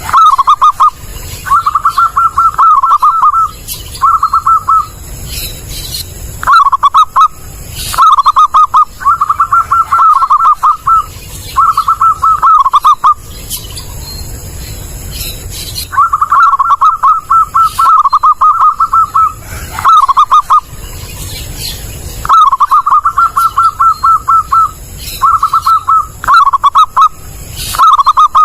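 Zebra dove (perkutut) cooing loudly and clearly in short phrases of quick, stuttering notes, repeated again and again with brief pauses between them. This is the kind of recording used as a lure call to trap perkutut.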